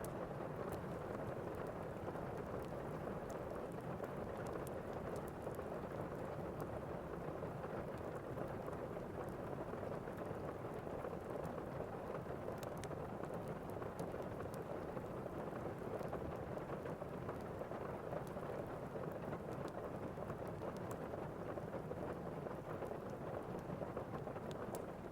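Thunderstorm ambience: steady rain with a low rumble underneath, and occasional faint ticks.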